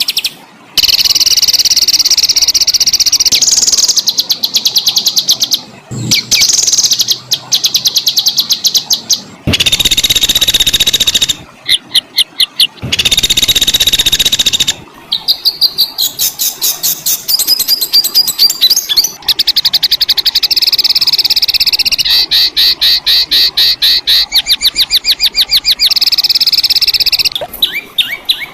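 Recorded songbird song of the harsh, rolling kind used to train competition birds: long loud phrases of rapid trills and fast runs of sharp repeated notes, broken by short pauses. Two of the phrases are rough and buzzy rather than clear.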